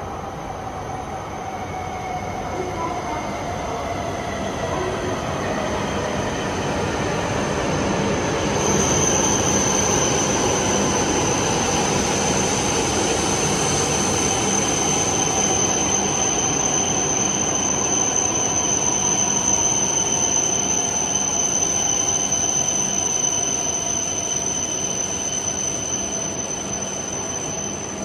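E7-series Shinkansen pulling into the platform and slowing: a rumble that builds over the first several seconds, with a motor whine slowly falling in pitch as the train brakes. From about nine seconds in, a steady high squeal sits over it.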